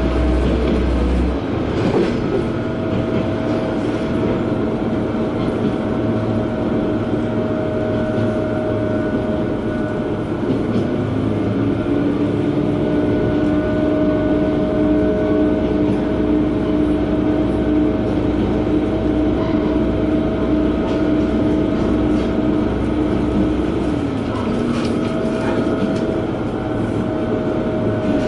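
Interior sound of a diesel railcar running along the line: a steady engine and running drone with a whining note that steps up in pitch about ten seconds in, holds, and drops back near the end.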